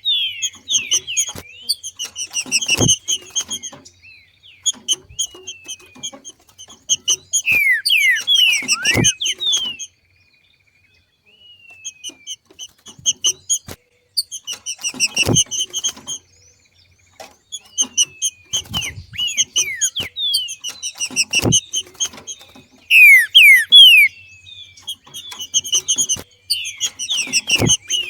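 Trinca-ferro (green-winged saltator) calling in the 'macheado' style: bursts of rapid sharp chips and quick downward-sliding notes, separated by short pauses. Dull thumps come in about every six seconds.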